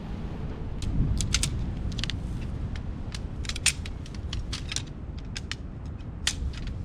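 A string of sharp, irregular clicks and clinks, like small hard objects being handled, over a steady low rumble.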